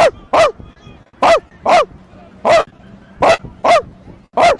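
A dog barking repeatedly, about eight short barks that often come in pairs, each one dropping in pitch.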